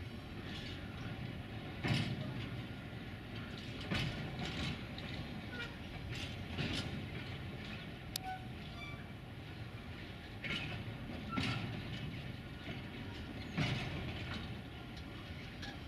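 Empty stake flat freight wagons rolling slowly past, their wheels knocking over rail joints every second or two over a steady rumble.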